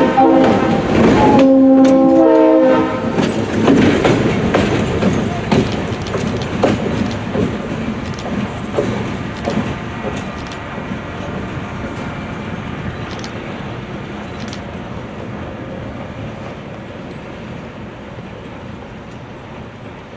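West Chester Railroad GP38 locomotive's RS3L air horn sounding a chord, its last blast ending about three seconds in. The train then passes with its wheels clicking over the rail joints, the sound fading steadily as it moves away.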